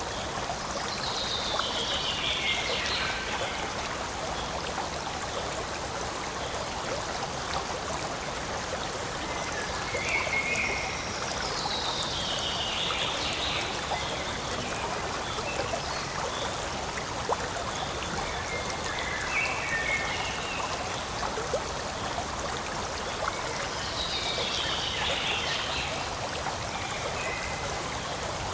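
Forest stream running steadily over stones, with a call that falls in pitch heard three times about ten seconds apart, and short chirps between.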